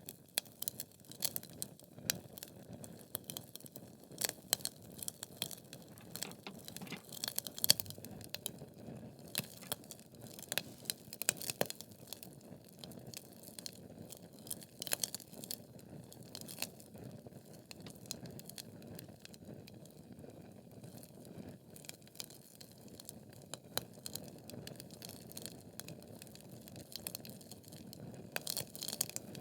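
Wood fire burning in a fireplace: logs crackling and popping at irregular moments over a steady low hiss of the flames, with a few louder pops.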